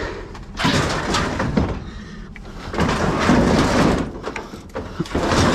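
Scraping and rumbling of something heavy being slid or dragged over a surface, in two long pushes of about a second and a half each and a shorter one near the end.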